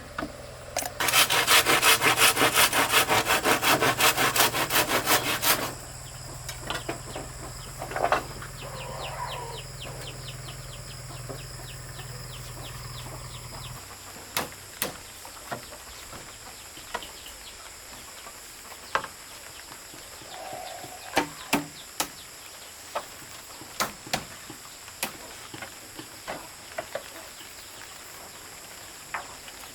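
A saw cutting through wood in quick, loud strokes for about five seconds, followed by scattered knocks and taps of work.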